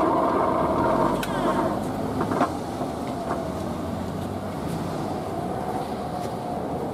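Kintetsu electric train slowing into a station: running noise with a faint motor whine gliding down in pitch, a couple of sharp clacks in the first few seconds, then quieter as it comes nearly to a stop.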